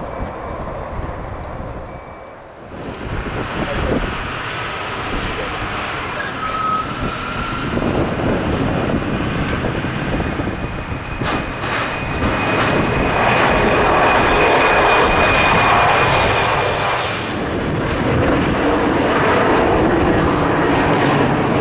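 Embraer E-195 regional jet taking off, its two turbofan engines at takeoff power. The sound starts abruptly about three seconds in, then grows louder to a peak with a thin steady whine over the rush, and eases a little near the end. Wind buffets the microphone.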